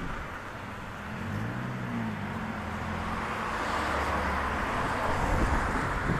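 Fire engine running on the road, its engine note rising and then falling about a second or two in, under a steady rush of road and wind noise that grows louder.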